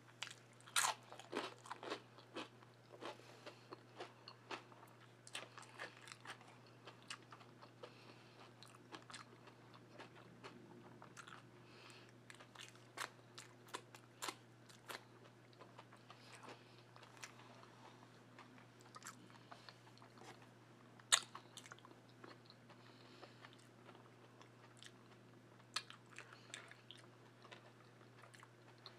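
Close-up chewing and crunching as a person eats by hand, with irregular crisp crunches throughout and one loud crunch about 21 seconds in.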